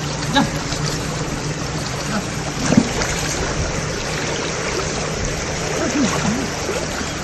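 Water of a small river running steadily.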